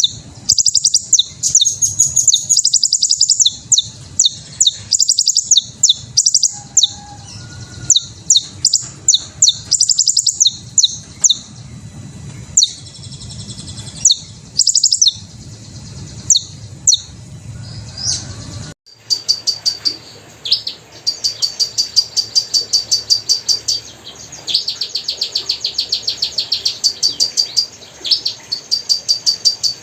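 Hummingbirds chirping: quick series of high, squeaky chirps. About 19 s in the recording changes to faster, steadier runs of repeated chirps.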